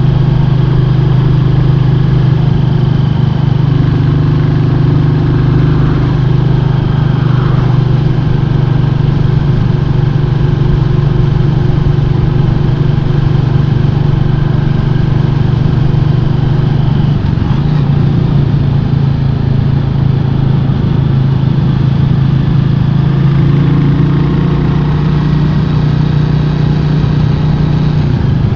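Royal Enfield 350 single-cylinder motorcycle engine running at a steady cruise on the road, with wind and road noise.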